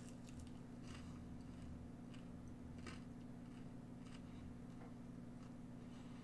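Faint chewing of a crispy breaded vegan chicken-free dipper: soft, scattered crunches and mouth clicks about once a second, over a steady low hum.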